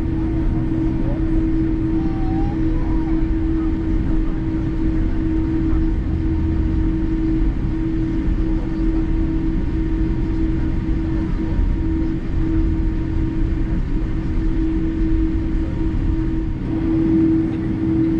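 Boeing 787-8 cabin noise while taxiing: a steady drone from its General Electric engines at low power, with a constant low rumble and one strong unwavering hum.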